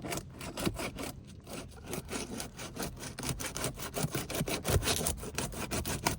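A tool scraping under a brittle Tamko asphalt shingle to break its seal: a fast, irregular run of scrapes and crackles.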